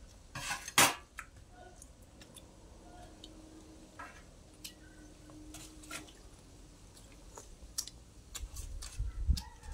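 People chewing and eating by hand, with scattered small mouth clicks and smacks. A louder sudden noise ending in a sharp click comes about a second in.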